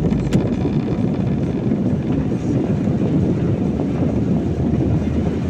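Steady low road noise of a car driving on a wet road in the rain, heard from inside the cabin, with one short click about a third of a second in.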